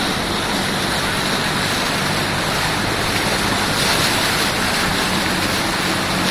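Steady rushing noise of water on a flooded road, with a faint low vehicle hum underneath.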